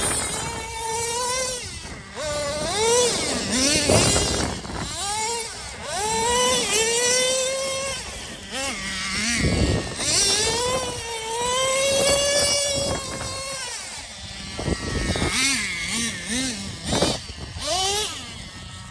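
Traxxas Revo 3.3 RC truck's small two-stroke nitro engine revving hard over and over while being driven, its pitch climbing with each burst of throttle and dropping off between.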